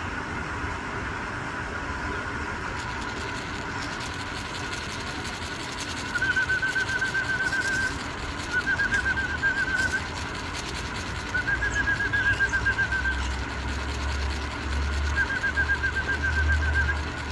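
A bird trilling: four bouts of rapid, evenly repeated notes, each lasting a second or two, with a low rumble underneath that grows in the second half.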